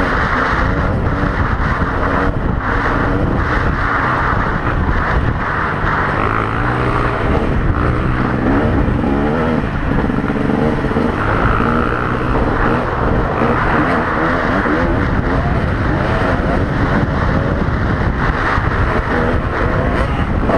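Kawasaki KX250 dirt bike engine running loud and continuous, its pitch rising and falling as the throttle is worked.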